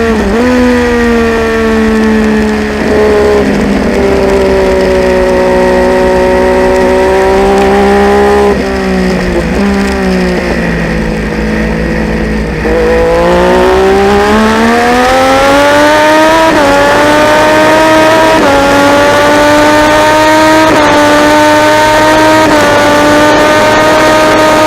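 Triumph Daytona 675's three-cylinder engine at race pace. Its revs drop in steps with blipped downshifts as it brakes into a corner, and it runs lower and quieter through the turn. Then it pulls hard out of the corner, rising in pitch, with four quick upshifts, each a sudden drop in pitch before it climbs again.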